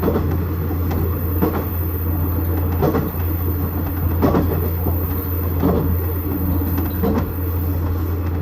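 KiHa 110 series diesel railcar running along the line, heard from inside the cab: a steady low diesel hum. Over it come sharp wheel clacks over rail joints, about one every second and a half.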